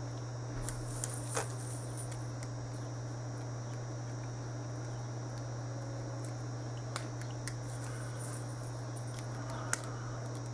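A handful of small, sharp metallic clicks from chainmail rings being handled and unpicked, a few seconds apart, over a steady low hum.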